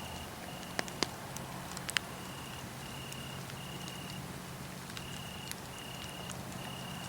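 Wood fire crackling, with a few sharp pops in the first two seconds, the loudest about a second in. Crickets chirp over it in short, evenly repeated high trills.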